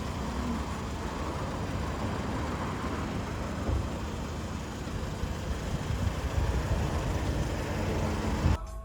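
Steady road noise of a moving car, a low rumble under an even hiss, which cuts off suddenly near the end.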